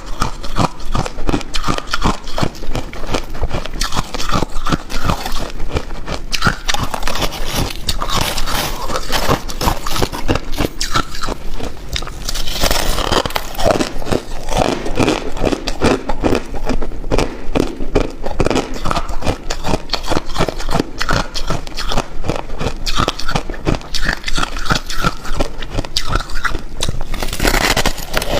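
Hard ice and crushed ice being bitten and chewed close to the microphone: dense, continuous crunching and crackling.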